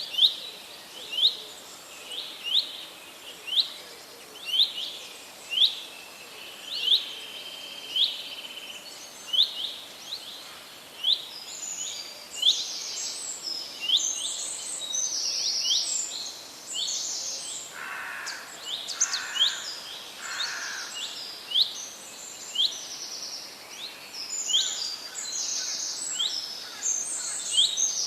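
Songbirds chirping: one bird repeats a short, sharp chirp about once a second throughout, and from about a third of the way in other birds join with higher, faster notes. Near two-thirds through, three lower calls sound in a row.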